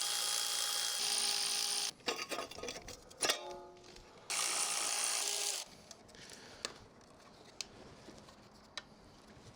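A cordless power tool running in two bursts, the first about two seconds and the second about a second and a half, with metallic clicks and rattling between them. It ends with a few faint clicks of parts being handled.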